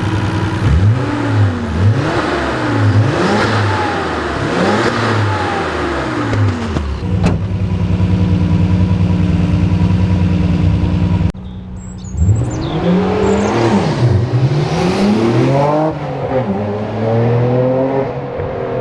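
Nissan Skyline R32 GT-R's RB26DETT twin-turbo straight-six being revved in short throttle blips, the pitch rising and falling about once a second, then settling into a steady idle. The sound breaks off abruptly about eleven seconds in, and another series of blips follows.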